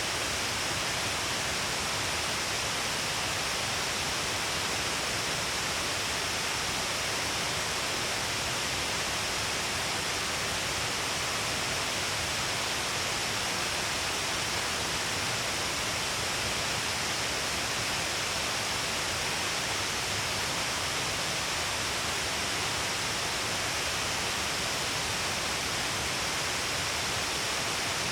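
Shiraito Falls, a broad curtain of water falling in many strands along a cliff, making a steady, unbroken rush of falling water and spray.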